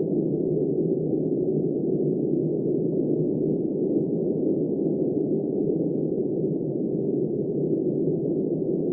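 Steady, muffled rush of blizzard wind, low-pitched with no high hiss, even throughout with no gusts or breaks.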